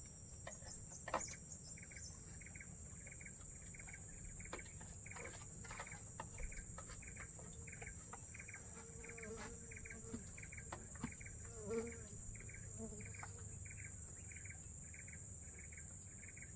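Forest insects: a steady high-pitched drone, with a chirp repeating about three times a second over it and a few faint clicks.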